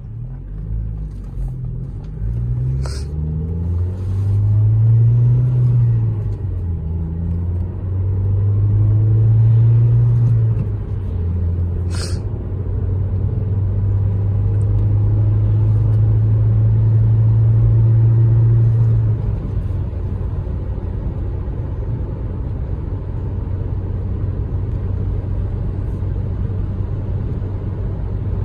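Ford SVT Focus 2.0-litre four-cylinder engine heard from inside the cabin, accelerating. The revs rise and fall back several times in the first ten seconds as the car pulls through the gears, then hold high and steady, and drop to a lower steady cruise about two-thirds of the way through. There are two short sharp ticks, one early and one near the middle.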